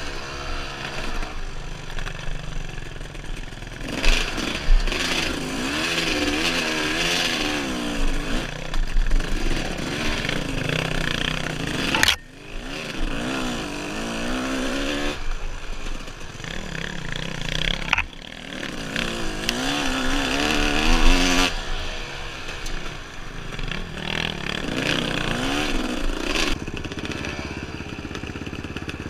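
Dirt bike engine ridden on a trail, its pitch rising and falling with the throttle, with some rattling. The throttle shuts off sharply twice, and near the end the engine settles to a steadier, lower running.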